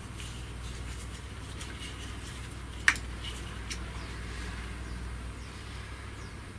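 Hand tools and a bolt being worked while the gearbox cover's centre bolt is undone: a few faint ticks and taps, with one sharp metallic click about three seconds in. A low steady hum underneath.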